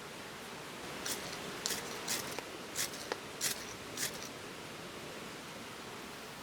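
Steady water hiss with a quick run of about seven short, sharp scraping strokes, made by hand work at camp, between one and four seconds in.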